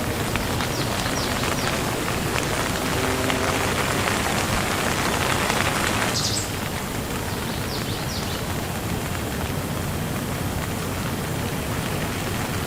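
Steady, heavy rain falling, a dense hiss with no single drops standing out. About six seconds in, the sound changes abruptly and the rain turns slightly duller and quieter.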